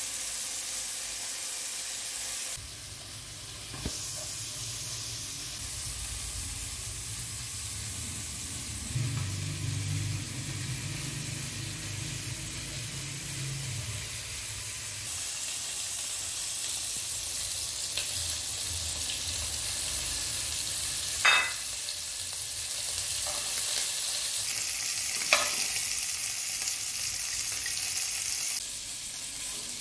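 Chicken skewers sizzling in oil in a frying pan, with two sharp clicks of metal tongs against the pan about four seconds apart in the second half. The sizzling grows louder near the end as the skewers are turned.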